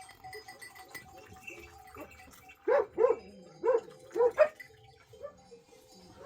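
A dog barking, a quick run of about five short barks a little under three seconds in.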